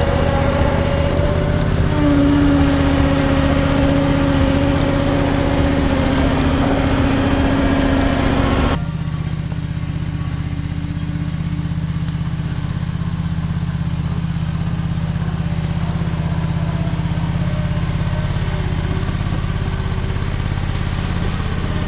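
Ventrac compact tractor engine running steadily, with a steady whine above it. About nine seconds in the sound changes abruptly: the whine falls away and the engine carries on a little quieter.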